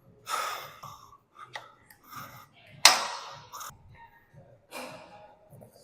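A person breathing hard during a workout: several loud, breathy exhales a second or so apart, the sharpest about three seconds in.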